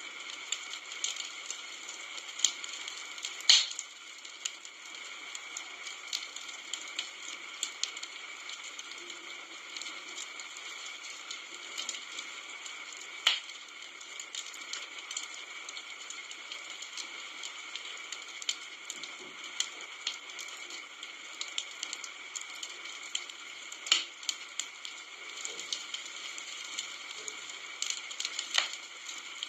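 Wood campfire crackling: a steady hiss of burning with frequent small snaps and a few louder pops, the loudest about three and a half seconds in.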